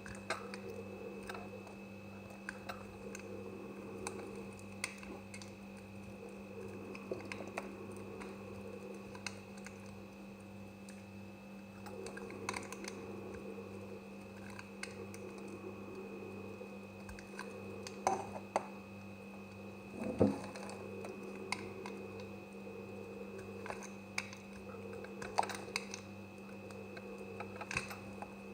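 Knife cutting through semi-dry soap: irregular light clicks and scrapes as the blade goes through, with louder cracks about 18 and 20 seconds in, over a steady background hum.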